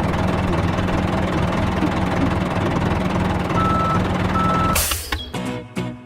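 A heavy vehicle's engine runs steadily, with two short reversing beeps just past the middle. The engine sound cuts off suddenly near the end and music begins.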